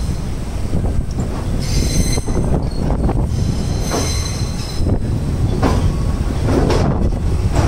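Passenger train running, heard on board: a steady low rumble of steel wheels on the rails with repeated clacks, and a high wheel squeal about two seconds in and again briefly around four seconds.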